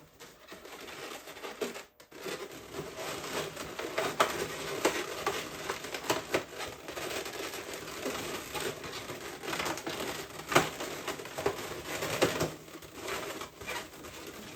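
Latex balloons being handled and fitted together, crinkling and rubbing, with a few sharp snaps and clicks.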